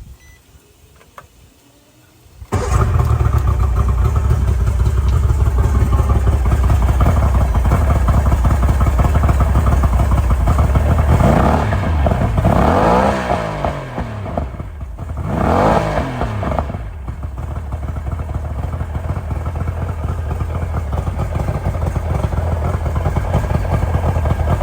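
Mercury 90 hp two-stroke outboard engine cutting in suddenly about two and a half seconds in and running steadily, with two brief rises and falls in pitch in the middle as it is revved, then settling back into a steady run.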